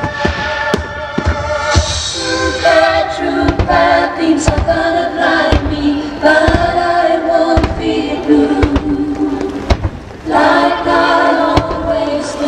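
Fireworks shells bursting in a string of sharp bangs over loud choral music from a musical, played for a music-synchronised display.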